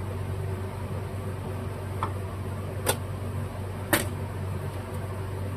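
Steady low background hum with three light clicks and knocks spread a second apart: small items such as a sealer tube and its cap being handled and set down on a workbench.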